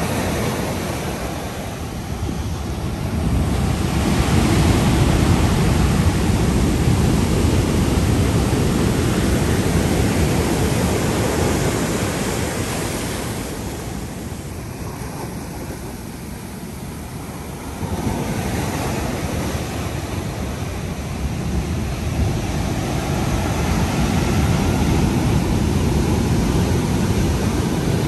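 Ocean surf breaking and washing in, swelling and easing with each set of waves, with a deep low rumble. It grows loud about four seconds in, quietens a little past the middle, then surges again.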